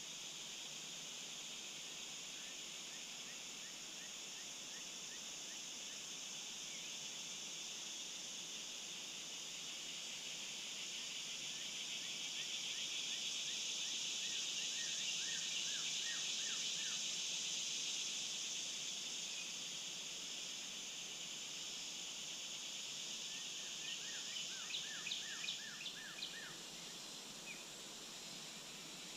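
A steady, high-pitched chorus of insects in early fall, which swells in the middle and then eases. Over it come several runs of short, falling bird call notes, the loudest run near the end.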